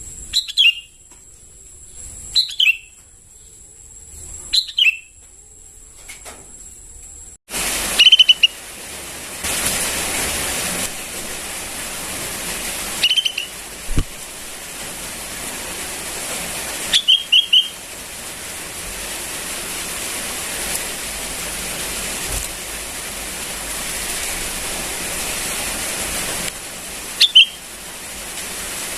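Young sooty-headed bulbul calling: short, sharp, falling chirps every few seconds, some single and some in quick runs of two or three. About seven seconds in, a steady hiss comes in under the calls.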